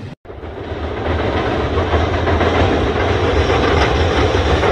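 Train running on rails: a steady rumble with a faint clatter of wheels over the track. It comes in after a brief gap and grows louder over the first second, then holds.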